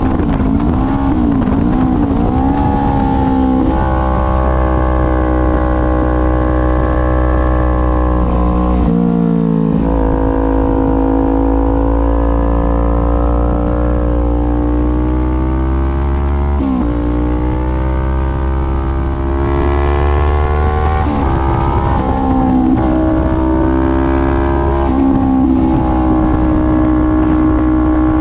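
Kawasaki Ninja 400's 399 cc parallel-twin engine running hard on track, its pitch rising and falling with the throttle, with sharp breaks at gear changes about 9 and 17 seconds in.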